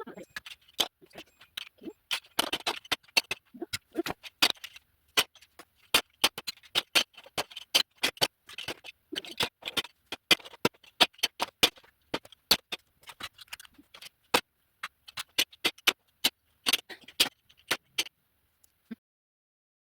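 Large plastic toy building bricks clicking and clacking against each other as they are sorted by hand: a quick, irregular run of knocks that stops near the end.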